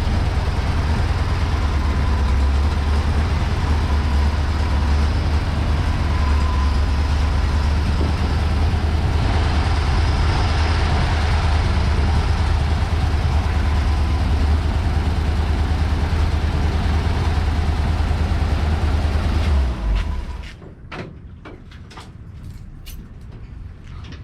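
A motor running steadily with a deep, low hum, cutting off suddenly near the end; a few faint clicks follow.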